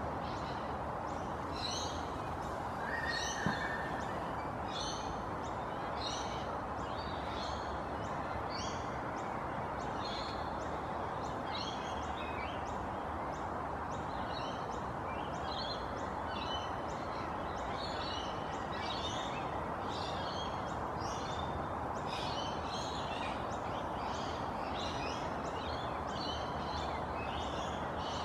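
Small birds chirping: short high chirps repeated two or three times a second over a steady background hiss, with a brief held note and a soft knock about three seconds in.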